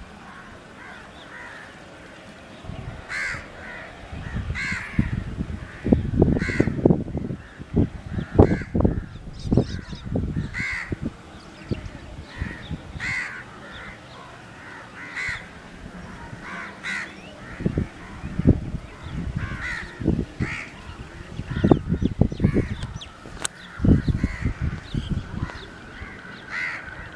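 Crows cawing repeatedly, a call every second or two, over irregular bursts of low rumbling.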